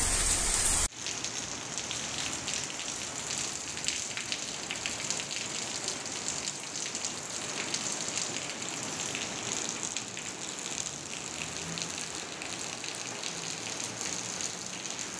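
Heavy rain hissing, cut off about a second in, then steady rain pattering, with rainwater running off a roof edge and splashing.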